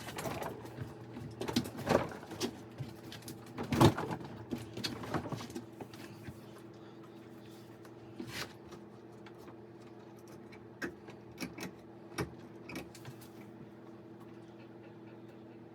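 Scattered knocks and clatters over a steady hum, busiest and loudest in the first few seconds, then a few single clicks spaced out.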